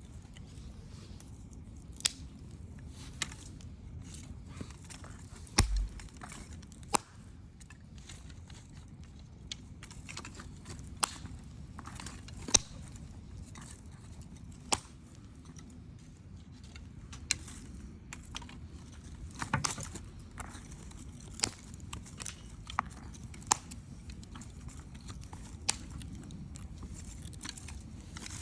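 Wood campfire burning and crackling: irregular sharp pops and snaps, a few louder ones, over a low steady rush of the flames.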